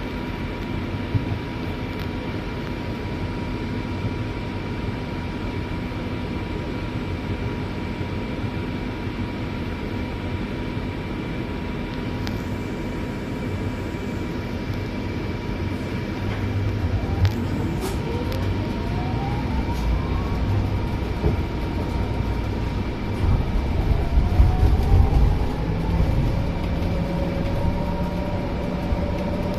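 Scania city bus heard from inside: the engine runs steadily under a constant high whine. About halfway through, the engine rumble grows and a rising whine climbs twice as the bus pulls away and picks up speed.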